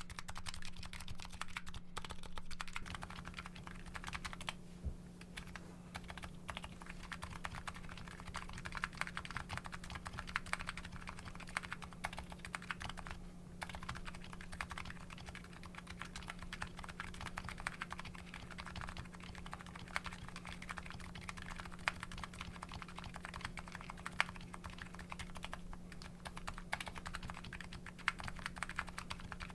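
Continuous typing on a Nuxros Kraze custom keyboard fitted with MetaKeebs electrocapacitive switches and CRP R5 Korean keycaps: a dense, steady run of key presses and returns. A faint steady electrical hum lies underneath.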